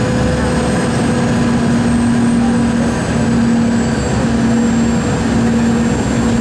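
Steady engine and airflow noise of a Boeing 717-200 with Rolls-Royce BR715 engines during its landing, with a steady low hum running through it.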